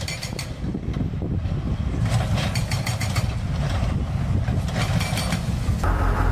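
Heavy demolition machine breaking up a concrete bridge deck: an engine runs under repeated, irregular banging impacts. Near the end the sound changes to a steady engine hum.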